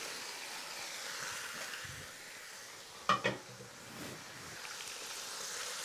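Marinated quail sizzling as they brown in hot fat in a pot: a steady frying hiss. A brief voice-like sound cuts in about three seconds in.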